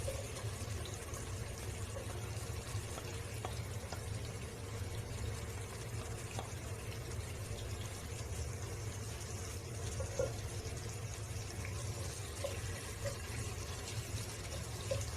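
Finely chopped onions, ginger and spices frying in hot oil in a pan: a steady sizzling hiss over a constant low hum.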